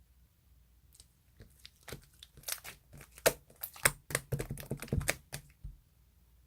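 A quick flurry of sharp clicks and crinkling sounds lasting about three and a half seconds, loudest in the middle, as of something being handled close by.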